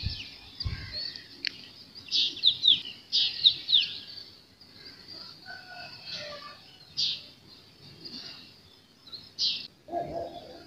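Small birds chirping: quick, sharply falling high chirps in bursts, busiest about two to four seconds in, with a few more scattered chirps later.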